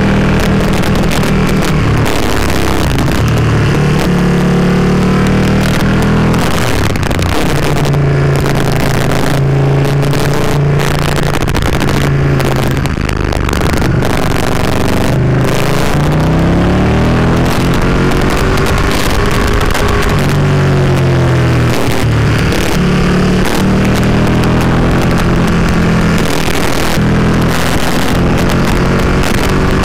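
Ducati Panigale 959's L-twin engine under way, its pitch rising and falling again and again as the rider opens and closes the throttle through the bends, over a steady rush of wind.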